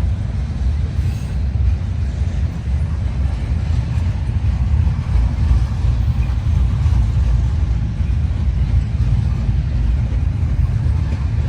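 Freight train passing close by: a steady, loud, low rumble with no distinct clanks or horn.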